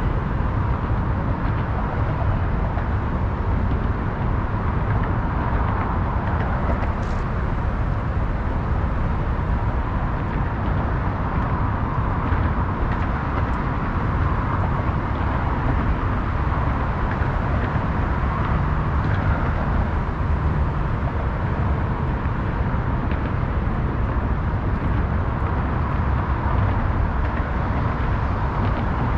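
Steady city ambience: a continuous wash of traffic noise with a low rumble, unbroken throughout, with a few faint ticks.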